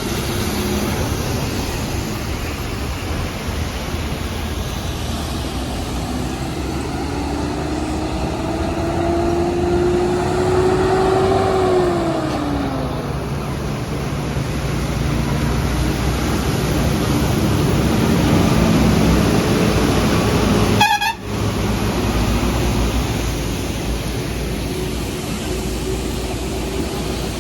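Heavy highway traffic, with trucks' engines running as they pass. About a third of the way in, one vehicle's tone climbs and then drops quickly as it goes by. There is a momentary break in the sound about two-thirds through.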